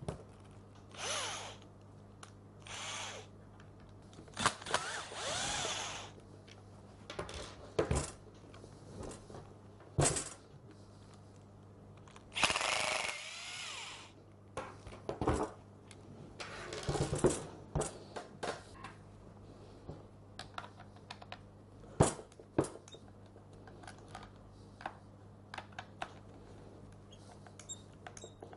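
Screwdriver undoing the T20 screws that hold the rear handle of a Bosch GSH 5 demolition hammer: several short bursts of scraping and turning, amid scattered clicks and knocks of the tool's plastic and metal parts being handled.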